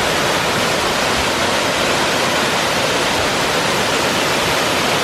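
Hareshaw Linn waterfall rushing loudly and steadily, in heavy flow after a night of torrential rain.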